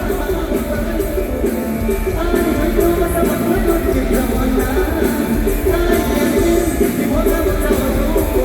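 Mor lam band playing live: loud, continuous music with heavy bass and a steady beat under a melodic line.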